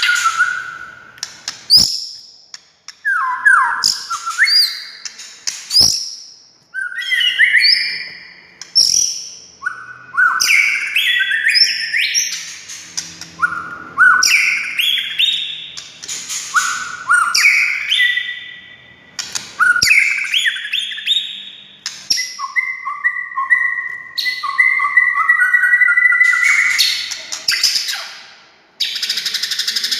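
White-rumped shama (murai batu) singing: loud, varied phrases of whistles, slurred notes and rapid chatter, each a second or two long with short pauses between, and a longer run of repeated notes near the end.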